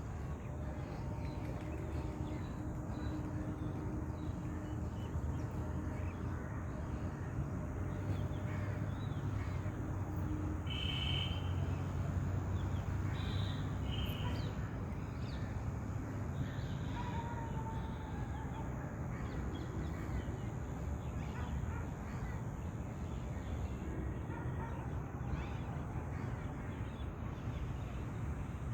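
A few short bird calls, a pair about eleven seconds in and another pair a couple of seconds later, then a short falling call, over a steady low rumble.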